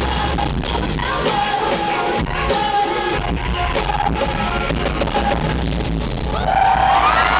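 Live concert music in a large arena: a band over a steady bass with singing. Near the end a high voice glides upward and the sound grows louder.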